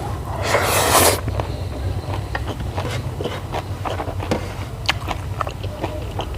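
Close-miked eating sounds: a loud crunchy bite or chomp about half a second in, then chewing with many small wet clicks, over a steady low hum.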